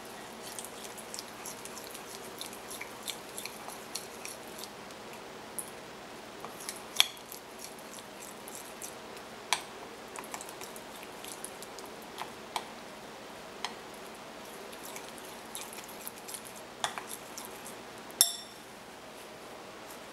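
A metal spoon clinking and tapping against a small dish in scattered knocks, over a steady faint hiss. About 18 seconds in comes the loudest clink, which rings on briefly.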